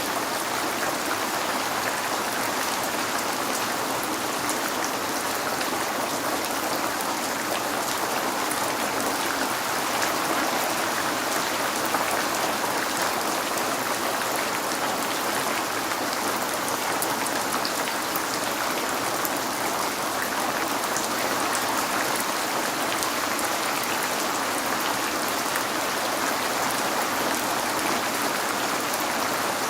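Steady rain falling on a window pane: an even hiss of rainfall with many small drop ticks through it.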